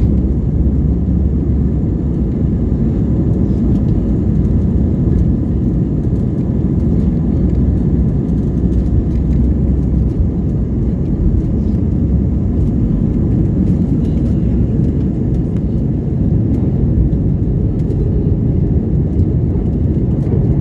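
Jet airliner taking off, heard from inside the cabin: a loud, steady low rumble of the engines and the aircraft.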